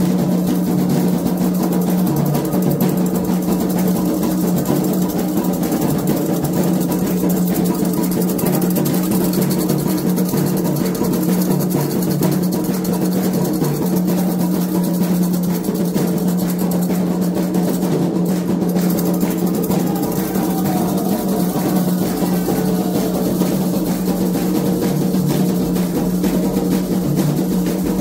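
Candomblé atabaque drums playing dense, continuous ceremonial rhythms at an even loudness.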